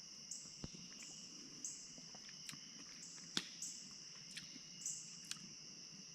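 Faint insect chorus, crickets chirring in a steady high-pitched trill with a higher layer that comes and goes every second or so, and a few soft clicks.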